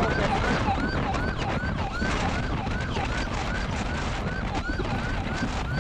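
Police car siren in a fast yelp, short rising sweeps repeating about three times a second, over steady wind and road noise.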